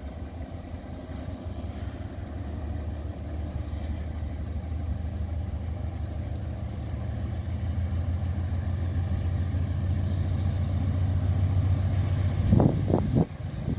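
Diesel freight train locomotive approaching, its low engine rumble growing steadily louder, with a short loud burst of sound near the end.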